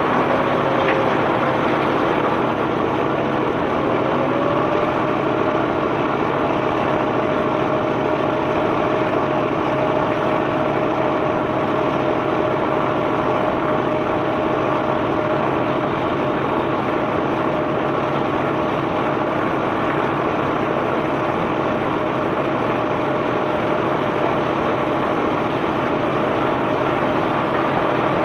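Heavy unloading machinery on a limestone barge running steadily: an engine hum with a steady tone that sags slightly about a second in and comes back up a few seconds later, over a continuous rushing noise.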